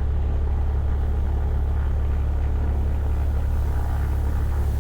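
Cessna 172's piston engine running at low power on the ground, heard from inside the cockpit as a steady, unbroken low drone.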